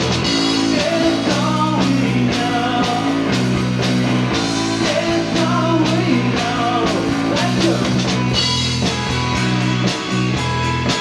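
Live rock band playing: two electric guitars, bass guitar and drums, with a steady beat.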